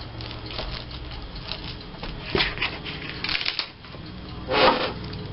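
Paper embellishments being handled and glued onto a scrapbook border: light clicks, taps and paper rustling, with a louder rustle about four and a half seconds in.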